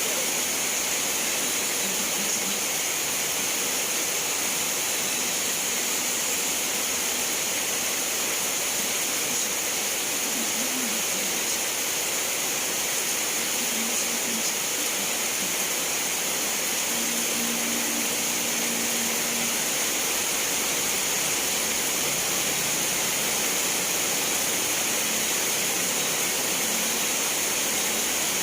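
Steady rain falling, an even hiss that does not change in level, with a few faint low tones now and then.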